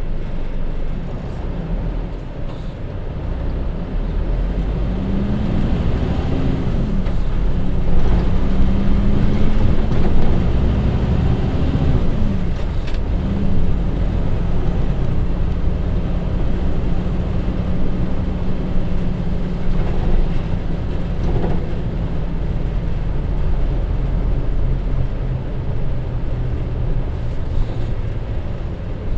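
Hino Rainbow HR city bus running on the road, its J07E inline-six diesel and DD5M five-speed manual gearbox (FF shift) pulling up through the gears. The engine note climbs twice, each climb cut off by a gear change, about a third of the way in and again just before the halfway point. It then holds a steady drone at cruising speed over the road rumble.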